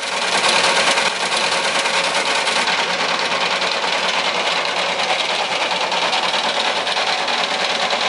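A small electric motor running steadily with a high, even whir, such as drives a toy construction machine.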